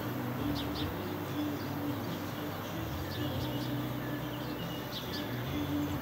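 Outdoor background with small birds chirping briefly now and then, over a low steady hum.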